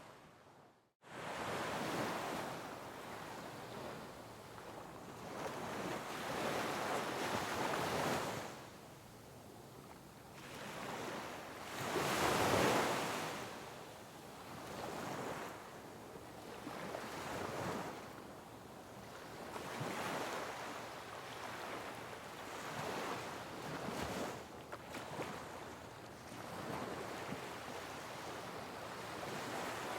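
Sea waves breaking on rocks along a rugged coastline, the surf rising and falling in surges every few seconds, with the biggest crash near the middle. The sound drops out abruptly to silence for about a second at the very start.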